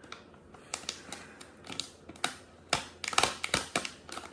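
A small plastic toy package being handled and opened by hand: irregular crinkles and sharp clicks, growing quicker and louder in the last second or so.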